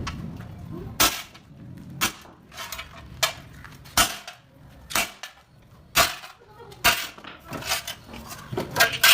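Hammer blows on sheet metal, about one sharp strike a second, each with a short ring.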